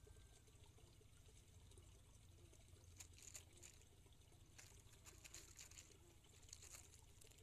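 Faint trickle of water, with a few patches of soft crackling from about halfway through, over a low hum.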